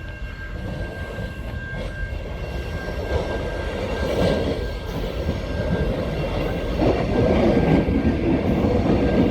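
Empty Melbourne suburban electric train approaching the platform, its rumble and wheel noise growing steadily louder.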